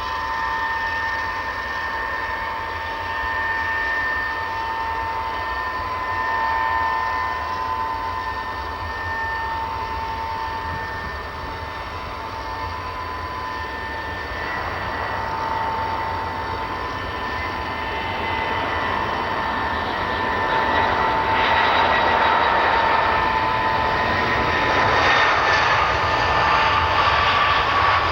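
Tupolev Tu-154M's three Soloviev D-30KU turbofans whining at taxi power, with steady high tones over a broad rushing noise. The noise grows louder over the last third as the jet comes closer.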